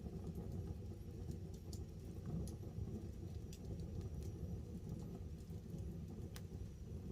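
Wood campfire burning with scattered crackles and pops, one sharp pop about six seconds in, over a low steady rumble.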